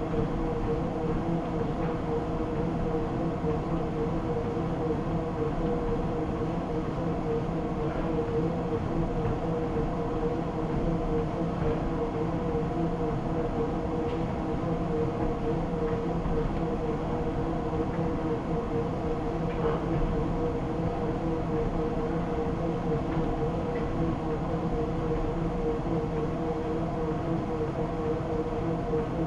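Treadmill running steadily: a constant motor and belt hum with a few steady tones over a low rumble.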